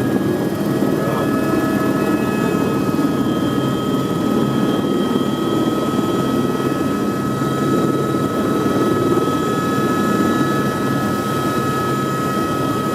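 Helicopter running steadily, a dense engine and rotor noise with a steady high whine on top.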